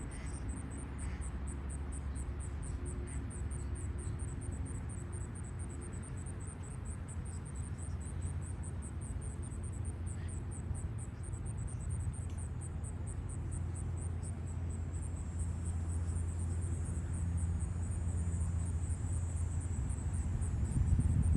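Insects chirping in a fast, steady train of high-pitched pulses, over a low steady rumble.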